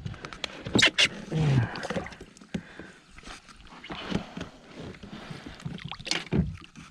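Irregular knocks and small splashes on and around a fishing kayak, loudest about a second in and again near the end.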